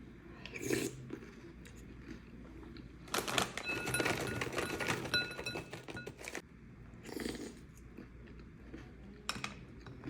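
Close-up eating-show sounds with Oreo cookies: a few short crunchy bursts and, in the middle, a longer crackling, rustling stretch of about three seconds.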